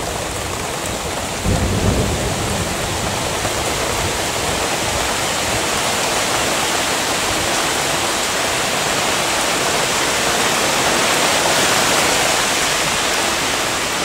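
Steady heavy rain, with a brief low rumble of thunder about a second and a half in.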